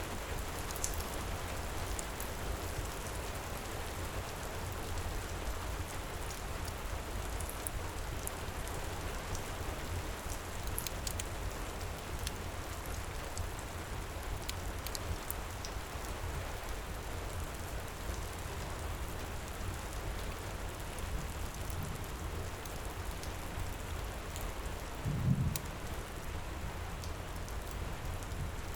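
Steady heavy rain, with scattered sharp crackles of a wood fire and one short low thump about 25 seconds in.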